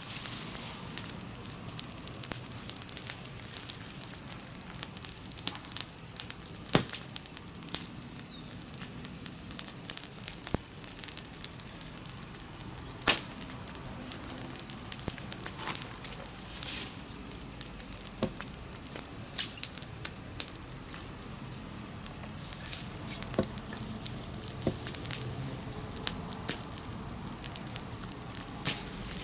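Wood campfire crackling: irregular sharp pops and snaps over a steady high hiss.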